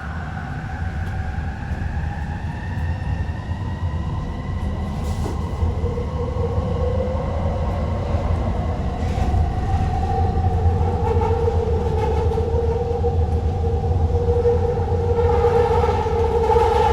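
Elevated rapid-transit train running, heard from inside the rear car: a steady low rumble under an electric motor whine that rises slowly in pitch and grows louder as the train gathers speed.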